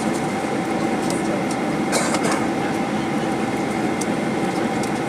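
Steady hum and rumble inside the passenger cabin of a Boeing 737-800 on the ground after landing, with scattered light clicks and rattles, the loudest about two seconds in.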